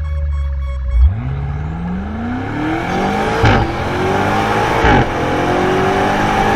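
A car engine accelerating through the gears, its pitch rising steadily with a short break at each shift, about a second in, then three and a half and five seconds in.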